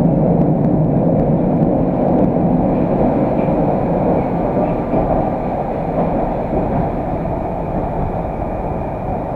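Moscow Metro train running, heard inside the carriage: a steady low rumble that grows gradually quieter as the train slows into a station.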